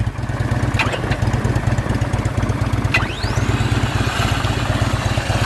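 Harley-Davidson Tri Glide's 110-cubic-inch V-twin engine idling with a steady low rumble. A few sharp clicks come about a second in and again near the middle.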